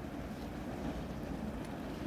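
Steady low rumbling noise, typical of wind buffeting the microphone.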